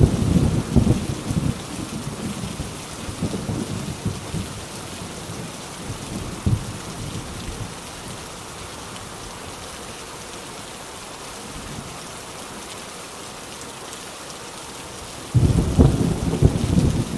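Heavy rain drumming on a rusty tin roof in a steady hiss. Thunder rumbles at the start and dies away within a couple of seconds. A new loud peal of thunder breaks in suddenly near the end.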